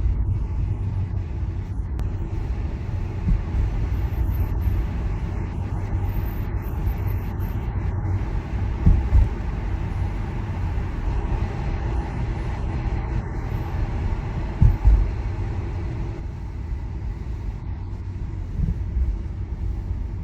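Tyre and road noise of a Tesla electric car driving at speed: a steady low rumble with no engine note. Two brief low thumps come about halfway through and again about three-quarters of the way through.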